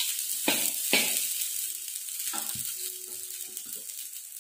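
Fried rice sizzling in a hot wok while a metal spatula stirs it, with a few sharper scrapes and knocks of the spatula against the pan in the first couple of seconds over a steady frying hiss.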